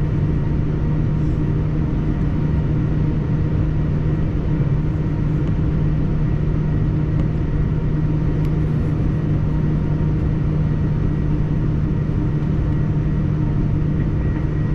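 Cabin noise of a Boeing 787-9 airliner taxiing on the ground: a steady low rumble with a constant hum and fainter steady tones above it.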